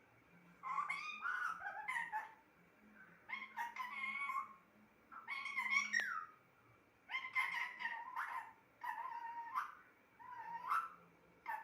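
Pet parrot talking in short, speech-like phrases, about six of them, each roughly a second long.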